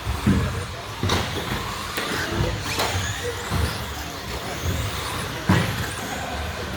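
Electric 1/10 stadium trucks with 13.5-turn brushless motors racing on a carpet track: steady motor whine and tyre noise, with sharp clacks and thuds every second or so, loudest about five and a half seconds in.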